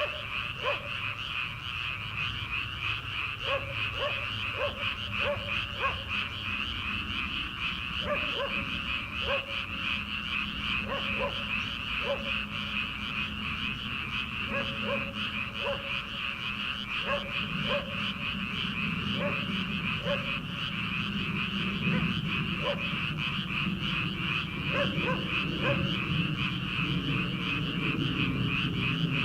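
A chorus of many frogs calling together in a dense, continuous high trill. Shorter, lower calls from other frogs break in again and again in small groups of two or three.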